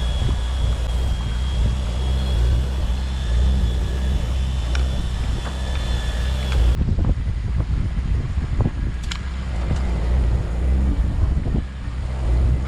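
Fishing boat's engine running with a steady low drone, with a few light clicks and knocks on board. A higher hiss over the drone drops away abruptly about halfway through.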